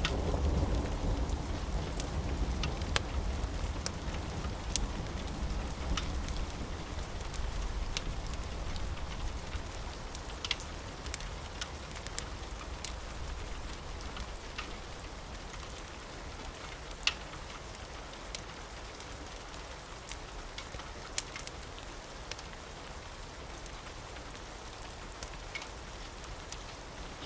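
Steady rain with a low thunder rumble dying away over the first few seconds, and scattered sharp clicks through it.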